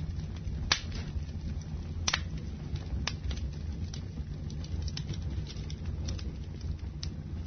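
Wood fire burning in a fireplace, with a steady low rumble and sharp crackling pops, the loudest about a second, two seconds and three seconds in.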